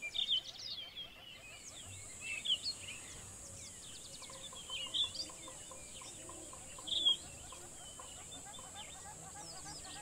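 Forest birds calling in short chirps and whistles, loudest about a quarter second in and again near two and a half, five and seven seconds. Beneath them runs a steady high-pitched buzz that drops out at the start and returns after about a second and a half.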